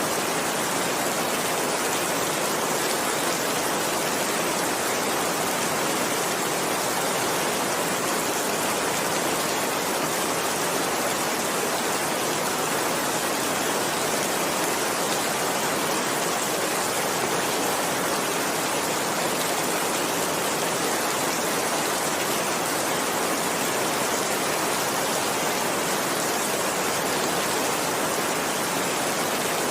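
Heavy rain falling steadily, an even hiss without any thunderclaps.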